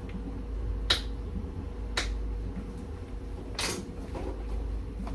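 Kitchen handling noises while cooking: two sharp clicks about a second apart, then a short scraping rustle, over a steady low hum.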